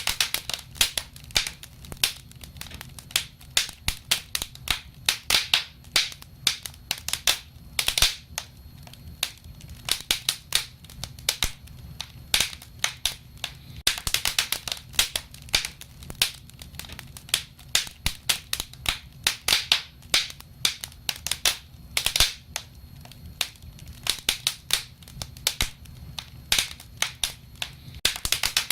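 Wood fire crackling: irregular sharp pops and snaps, several a second, some in quick clusters, over a faint low rumble of the burning.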